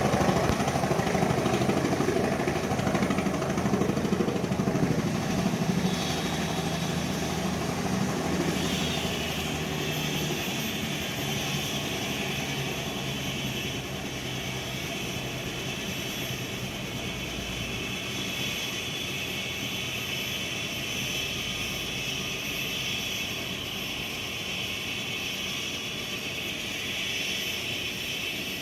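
Bell 505 Jet Ranger X helicopter running, its Arrius turboshaft and rotor sounding together. The low rotor noise is loudest for the first several seconds and eases off about eight seconds in, leaving a steady high turbine whine.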